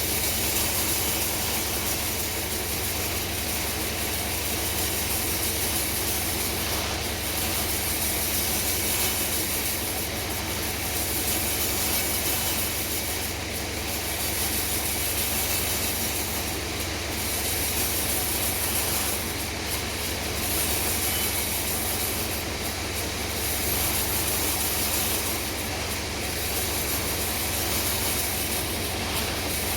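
Sawmill saw running and cutting through a hard bongkeng log: a steady loud hiss over a low hum, easing briefly about every three seconds.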